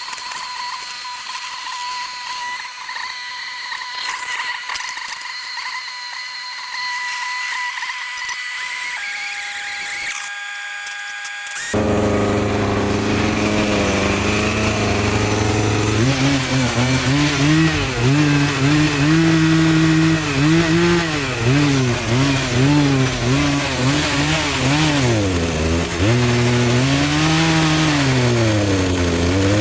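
A high, steady whine that lowers briefly, then from about twelve seconds in a two-stroke gas chainsaw running loudly, its pitch stepping and swinging up and down as it is throttled and bogs in the cut.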